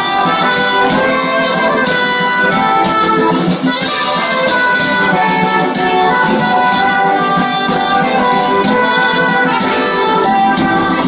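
Live band playing an instrumental passage of the song, led by a brass section in held, pitched lines over the rest of the band.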